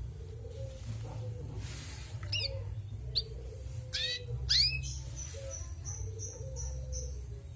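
Female canary calling: several sharp chirps that sweep quickly in pitch, then a run of short high notes repeated about three times a second near the end.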